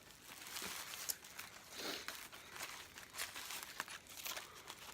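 Paper burger wrapper crinkling and rustling as it is handled, with scattered sharp crackles.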